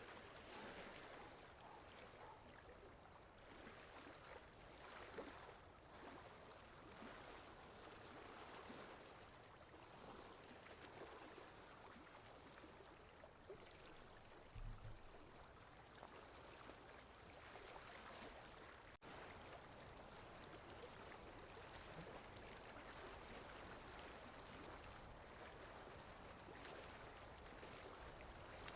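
Steady rainfall: a soft, even hiss of rain with individual drops ticking through it, and one brief low thump about halfway through.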